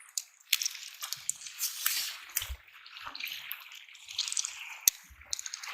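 Seawater splashing and trickling among shore rocks, broken by many sharp clicks and taps.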